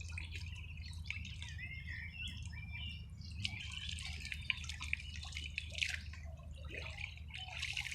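Water splashing and dripping in many small crackling splashes, with birds chirping during the first few seconds.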